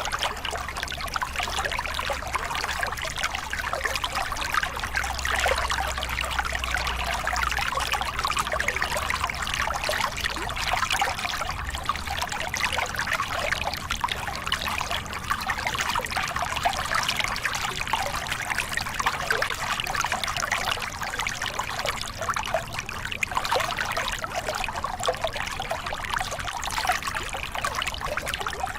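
Water of a small river cascade splashing and rushing steadily.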